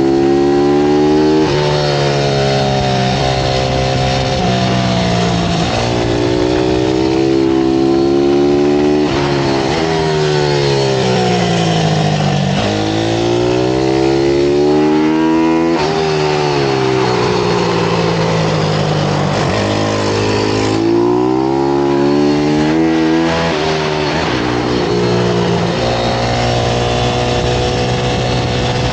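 Pit bike engine running hard on a race track, its pitch climbing through the gears in steps and dropping back several times as the bike slows and accelerates again.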